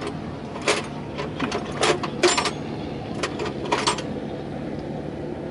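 Irregular sharp metallic clicks and clanks of tools and parts being handled during a tractor front-wheel hub repair, several in the first four seconds.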